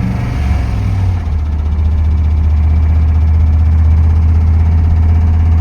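1990 GMC 1500 pickup's engine running with a steady low drone, its note shifting slightly about a second in. The engine is knocking, which the owner first took for a lifter and now doubts.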